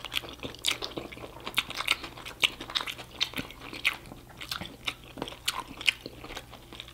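Close-miked eating sounds: a person chewing a mouthful of Mexican fast food, with wet mouth smacks and clicks coming irregularly, a couple a second.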